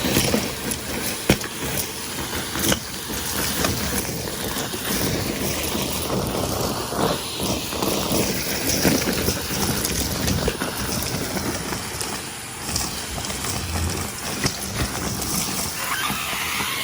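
Numatic Henry canister vacuum cleaner running and sucking up crunchy debris, with irregular clicks and rattles of grit going up the hose over the steady motor noise.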